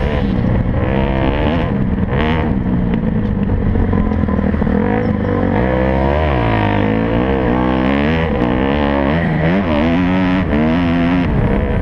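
Several motocross bike engines racing, their pitch climbing and dropping over and over as the riders work the throttle and shift gears.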